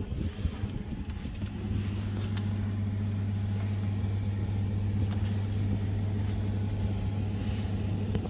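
A steady low mechanical hum that thickens about a second and a half in and then holds level, with a few faint ticks.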